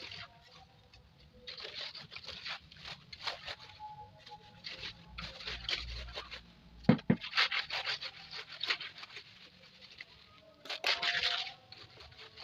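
Irregular scraping strokes on a hard surface, with one sharp knock about seven seconds in.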